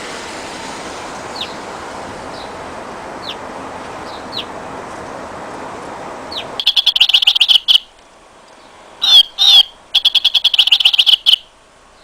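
Electronic robotic toy bird chirping: a few faint short descending chirps, then loud, rapid machine-even trills, two warbling notes, and a second rapid trill.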